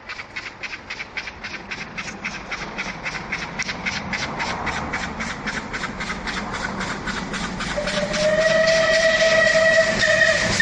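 Steam train approaching: a fast, even beat from the locomotive and its wheels growing louder, then a long, steady blast of its steam whistle from about eight seconds in.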